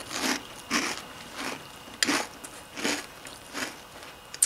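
A mouthful of Cap'n Crunch Peanut Butter Crunch cereal in milk being chewed, with a steady run of crunches about every two-thirds of a second.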